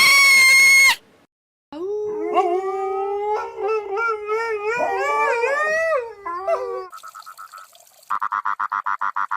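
A canine howling: one long, wavering howl that slides up and down in pitch for about five seconds. It follows a brief loud high tone at the start, and near the end a fast, high pulsing trill comes in.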